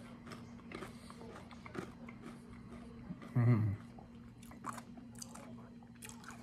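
Chewing a tortilla chip with salsa, mouth closed, with faint scattered crunches. About three and a half seconds in comes a short hummed "mmm" that falls in pitch, the loudest sound.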